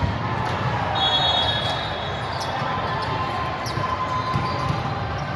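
Indoor sports-hall game sounds: scattered ball and footstep thuds, faint long high squeaks, and a low background of crowd chatter echoing in the hall.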